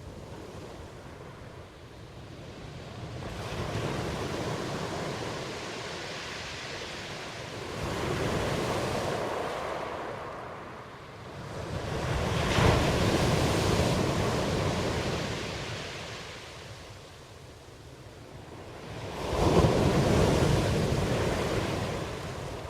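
Ocean waves breaking and washing back. The surf swells and fades in four slow surges, a few seconds apart, and the two later ones break suddenly.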